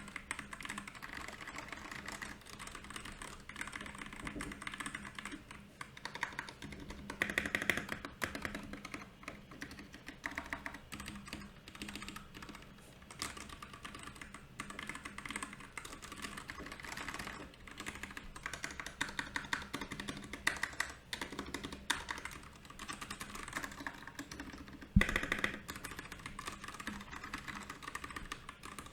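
Continuous typing on a Royal Kludge RK68 mechanical keyboard with brown and milky yellow switches: a steady run of key clicks that grows busier now and then. One heavier thump lands about twenty-five seconds in.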